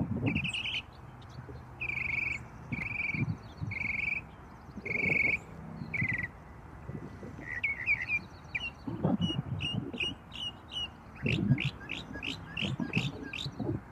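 Birds calling in a field: a short call repeated about every half second, then quicker chirps and a run of rapid falling notes. Low rumbling or rustling bursts come and go underneath.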